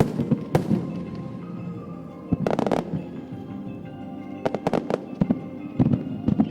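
Aerial firework shells bursting in a string of sharp bangs at irregular intervals, some in quick clusters, over music playing from loudspeakers.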